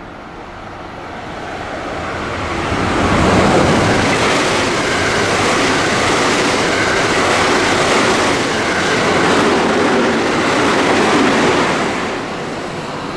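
JR West train passing through at speed on the Biwako Line: its rumble and wheel noise build over about three seconds, stay loud for about eight seconds, then begin to fade.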